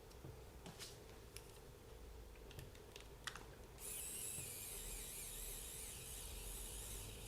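A few light clicks of small parts being handled, then about four seconds in a small electric motor starts and runs with a steady high whine. The battery driving it may need changing.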